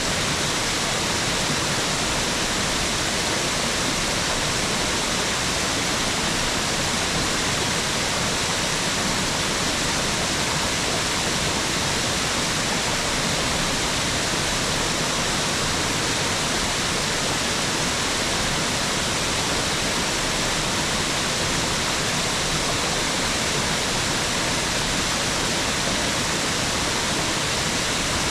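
Mountain waterfall: water falling in a steady, unbroken hiss, strongest in the upper range, with no change in level.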